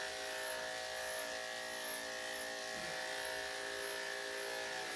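Electric dog grooming clippers fitted with a #5 blade, running steadily with an even hum.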